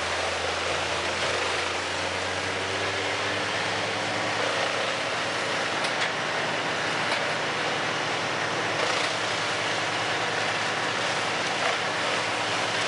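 Heavy machinery engines running steadily, a wood chipper with a log loader working beside it: a low, even hum under a broad rushing noise, with a few faint knocks.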